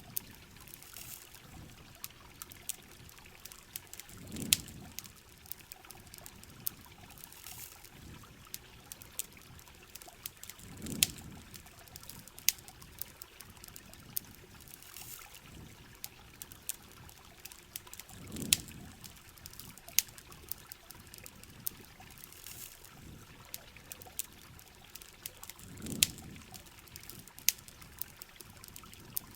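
Rain and campfire ambience: steady trickling, pattering water with sharp crackles and pops scattered throughout, and a low whoosh that swells and fades about every seven seconds.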